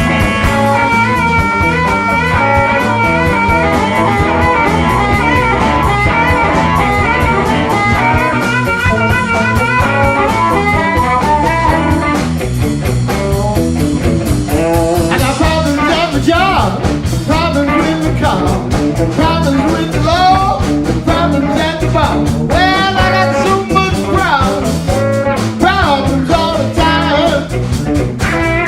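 A blues band playing an instrumental passage: held steady chords for the first twelve seconds or so, then a lead line that bends and wavers in pitch over the rhythm section.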